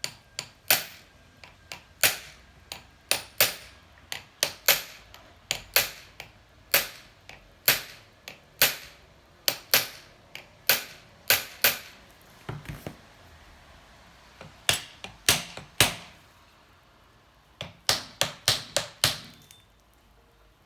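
Hammer blows on wedges driven in at the base of a seized cylinder on a 1984 Honda C70 engine, forcing the cylinder off the crankcase. Sharp strikes come one or two a second, with two short pauses in the second half.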